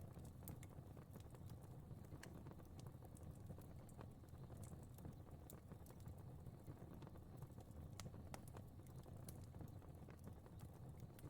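Faint fireplace fire crackling: irregular sharp pops and ticks over a low, steady rumble.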